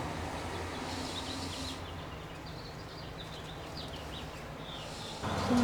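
Small birds chirping in quick short calls over a steady low rumble of distant road traffic; the background noise jumps louder near the end.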